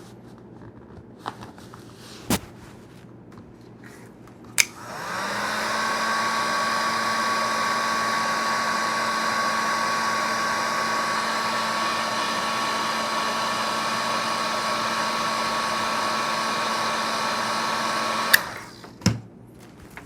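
Heat gun switched on with a click about four and a half seconds in, its fan spinning up to a steady blowing hum with a whine, then switched off with a click near the end and winding down. It is heating a Kydex holster to soften it for reshaping. A few short knocks come before it starts and just after it stops.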